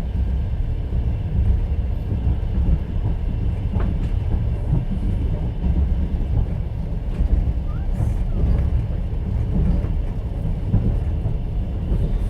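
Steady rumble and rattle of a moving passenger train heard from inside an open-plan sleeper carriage, with the wheels running over the rails and a few faint clicks and small squeaks.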